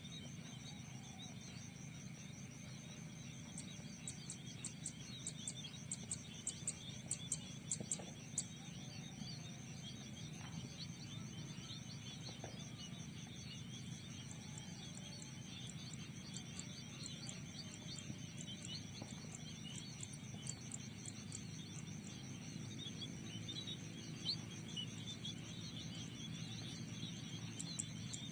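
Outdoor field ambience: a steady high-pitched insect trill runs throughout, with scattered small-bird chirping. Twice there are runs of sharp, rapid high chirps, about a quarter of the way in and again past the middle.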